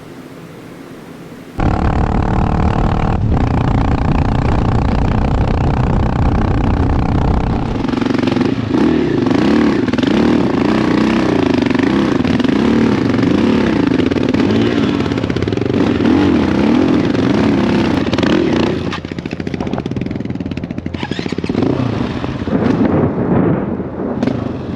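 Dirt bike engine being ridden hard, cutting in suddenly after a second or two of steady hiss. Its pitch rises and falls quickly with the throttle through the middle stretch, and it eases off near the end.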